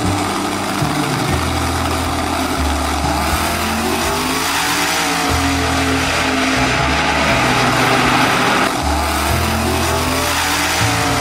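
Twin-turbo Chevrolet Camaro drag car's engine running hard as it launches and accelerates away down the drag strip.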